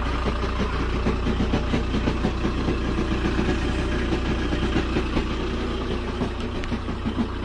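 Motorhome engine idling with a fast, steady rattling tick through it: the abnormal engine noise that has come back, which the owner blames on the dealer's service shop.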